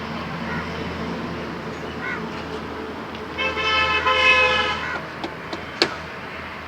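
A horn, most likely a vehicle's, sounds once, held steady for about a second and a half over a constant low engine-like hum. A single sharp click follows about a second later.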